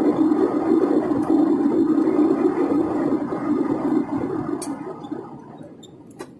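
A steady low rumbling noise, with a faint high whine, that dies away over the last two seconds; a couple of sharp clicks come as it fades.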